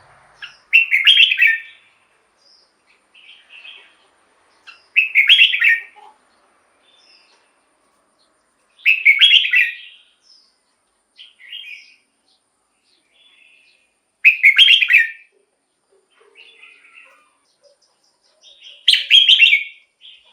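Red-whiskered bulbul singing: five loud, short song phrases spaced about four to five seconds apart, with softer notes in between.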